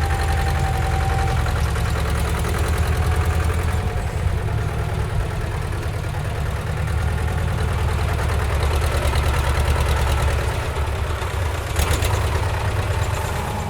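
Heavy diesel engine of a construction vehicle running with a steady, fast-pulsing rumble. A short click comes near the end.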